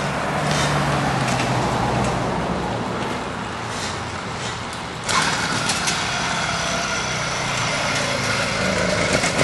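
Small engine of a home-built motor bike running, getting suddenly louder and brighter about five seconds in.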